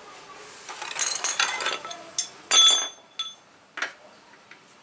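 Hard objects clinking together: a clattering rattle about a second in, then one loud sharp clink that rings briefly, followed by a few lighter clicks.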